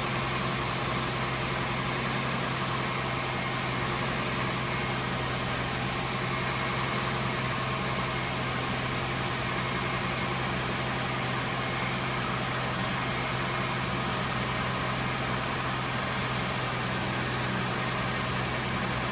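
A 2005 Lexus LS430's 4.3-litre V8 idling steadily while it warms up after a cold start.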